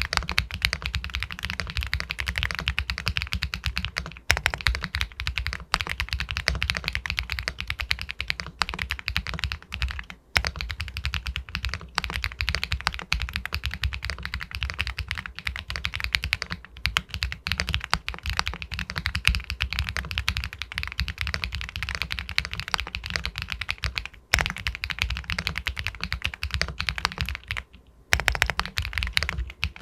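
Continuous fast typing on an Epomaker Galaxy 80 Pro full-aluminum mechanical keyboard with White Jade linear switches, a pebble-like clack on each keystroke. There are a few brief pauses in the typing.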